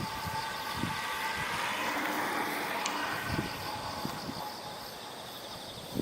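A vehicle passing, its noise swelling to a peak a couple of seconds in and then fading away.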